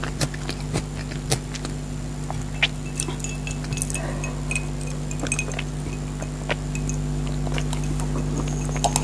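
Light clinking of cutlery against a plate, with scattered small clicks and short ringing pings, over a steady low hum.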